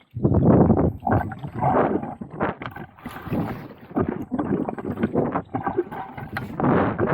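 Kayak paddle strokes: water splashing and swishing as the blades dip and pull, in surges about once a second.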